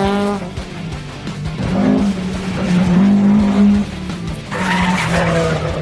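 Rally car engines running hard past the stage, heard together with background music with a steady low bass line.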